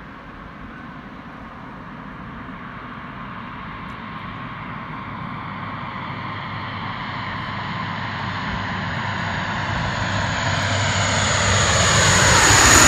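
Lockheed C-130 Hercules's four turboprop engines growing steadily louder as the aircraft approaches to land, with a high whine coming in near the end and the pitch starting to drop as it passes close by.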